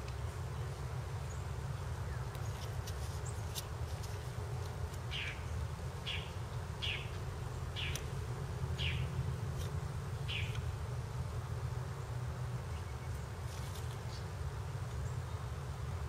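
Steady low rumble with a small bird chirping six times, about a second apart, in the middle, and a few faint clicks.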